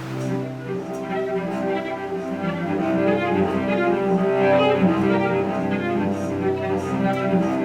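Bowed string instruments, cello-like, begin playing an original piece: several notes sound together over a low held note, with the playing growing a little louder through the passage.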